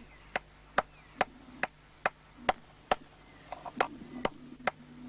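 Cross-pein hand hammer striking hot iron on a small block anvil in a steady rhythm of about two blows a second, tapering the end of a small spearhead, with a short pause near the middle.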